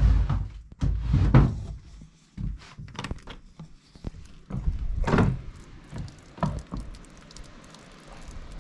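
A series of thumps and knocks on wood: footsteps across a log cabin's plank floor and its wooden door being opened, with a faint hiss of wind near the end.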